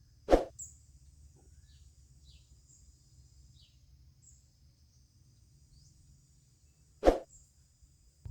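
A steady, faint high-pitched insect drone with short bird chirps over it, broken by two sharp knocks about seven seconds apart; the knocks are the loudest sounds.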